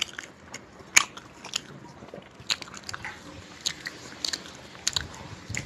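A person eating flatbread and chicken curry by hand: chewing and wet mouth smacks with scattered short, sharp clicks, the sharpest about a second in.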